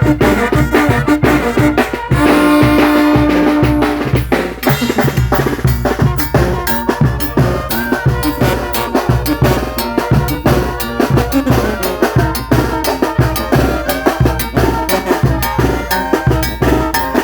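Mexican brass banda playing: the horns hold a long chord for the first few seconds, then the drums and percussion carry a fast, driving beat with only light brass underneath.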